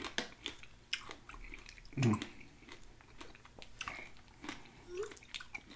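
Close-miked chewing and crunching of a yogurt bowl with granola and fruit: wet mouth sounds and many small sharp clicks, with a brief low hum about two seconds in.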